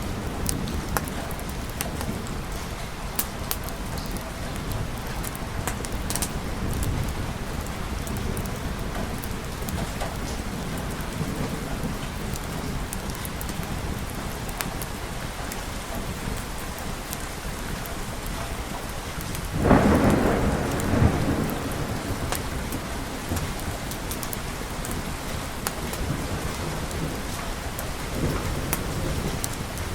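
Steady rain falling in a thunderstorm, with scattered drips and crackles. About two-thirds of the way through, a sudden loud thunderclap rumbles and fades over a couple of seconds, and a fainter rumble of thunder comes near the end.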